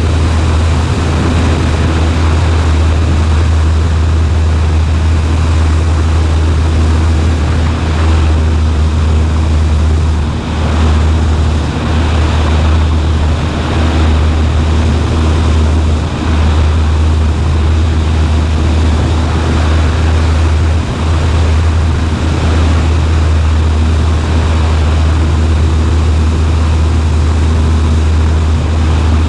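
Cessna 140A's piston engine and propeller running steadily in flight, a loud, even low drone with brief small dips a few times.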